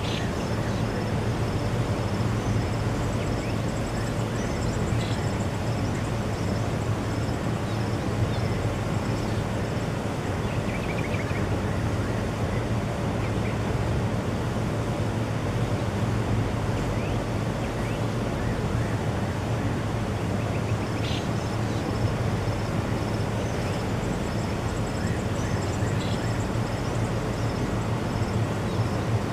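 Faint bird calls, short high chirps and a rapid run of repeated high notes heard twice, over a steady low hum.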